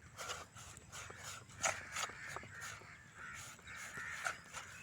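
Crows cawing repeatedly, with scattered small clicks and taps.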